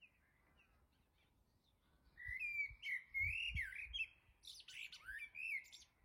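A songbird singing a rapid run of chirps and warbling phrases, starting about two seconds in, with a few brief low thumps underneath.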